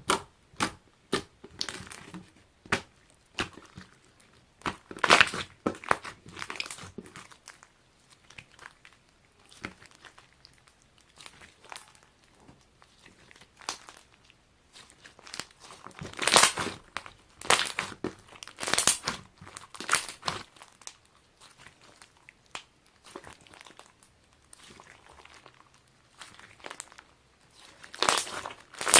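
Hands squeezing and kneading foam slime, the foam beads in it crackling and popping in quick irregular runs. Louder bursts come about five seconds in, again from about sixteen to twenty seconds, and near the end.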